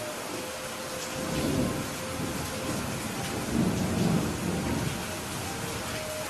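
Steady rain falling, with low thunder rumbling underneath. The thunder swells briefly about a second and a half in and again more strongly around four seconds in.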